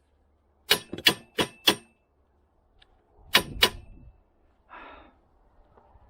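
Sharp metal-on-metal strikes, each with a brief ring: four quick ones about a second in, then two more a little past halfway with a low thud under them. A short scraping rustle follows near the end.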